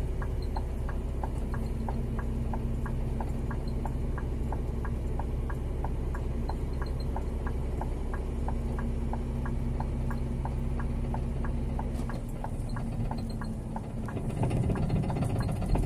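Scania G 410 truck's diesel engine running steadily, heard inside the cab, with an even ticking about three times a second from the turn-signal relay. The engine note drops about twelve seconds in, and the noise grows louder near the end.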